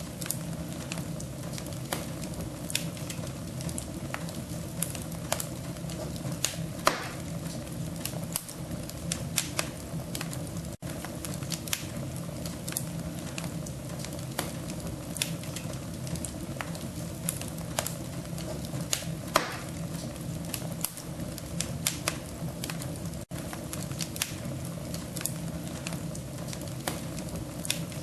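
Wood fire crackling, with irregular sharp snaps over a steady low rumble; the sound drops out for an instant twice.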